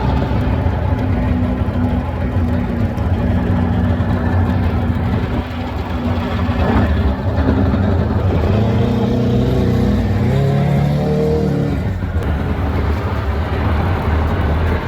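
Two-stroke outboard motor on a jet jon boat running steadily under way. Its pitch rises for a couple of seconds about ten seconds in.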